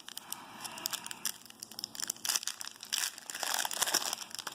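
Foil wrapper of a Topps Chrome trading-card pack crinkling as it is handled, a quick irregular run of crackles.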